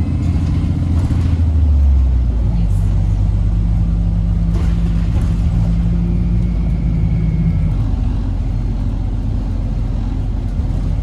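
Interior drone of a 2008 Orion VII NG HEV hybrid bus under way, its Cummins ISB diesel and BAE HybriDrive drivetrain humming steadily. The pitch of the hum drops about two seconds in, and there are a few brief rattles.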